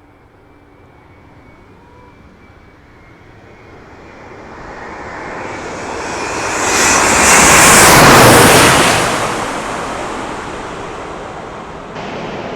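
Jet airliner passing low overhead: the engine noise swells over several seconds, peaks loudly about eight seconds in with a rush and high whine, then fades away.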